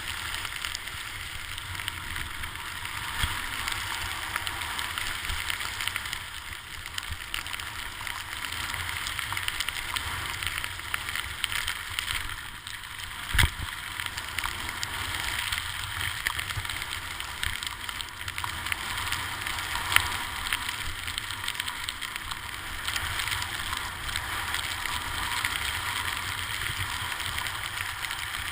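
Steady hiss of sliding down a snowy ski slope, with low wind rumble on the microphone. Sharp knocks come twice, about 13 seconds in and again about 20 seconds in.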